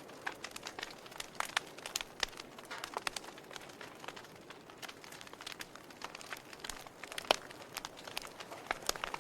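Wood fire burning in a fireplace: irregular crackles and pops over a soft steady hiss, with one louder pop a little past seven seconds.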